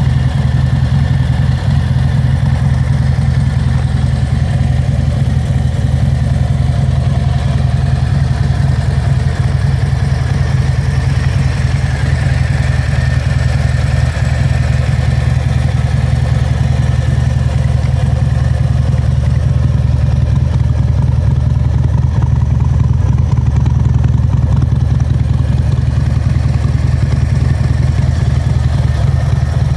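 Harley-Davidson Fat Bob 114's Milwaukee-Eight 114 V-twin engine idling steadily, a deep, even low rumble.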